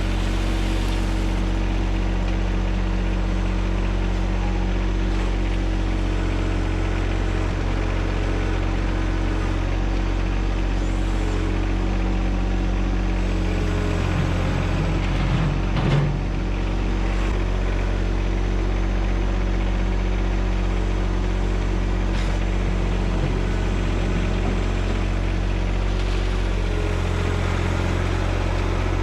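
John Deere 1025R subcompact tractor's three-cylinder diesel engine running steadily, with a brief rise in level about halfway through.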